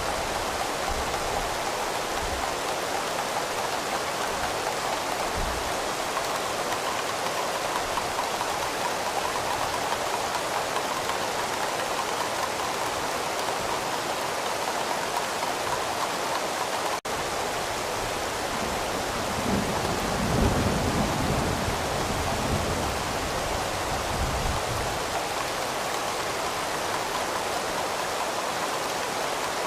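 Steady rain falling, with a low rumble of thunder rolling through about two-thirds of the way in. The sound cuts out for an instant just past halfway.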